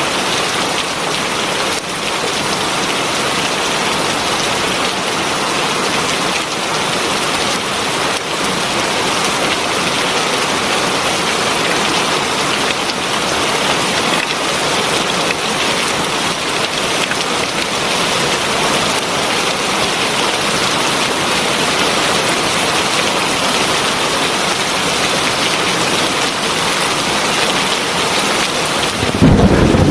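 Heavy rain pouring steadily, an even dense hiss of drops. Near the end a louder low rumble cuts in suddenly.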